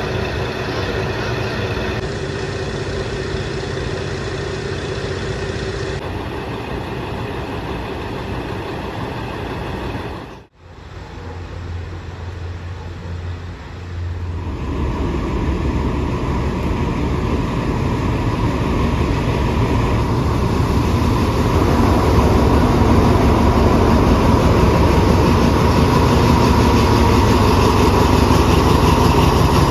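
Diesel train engine running with a steady hum. It cuts out abruptly about a third of the way in, then comes back and grows steadily louder and heavier through the rest.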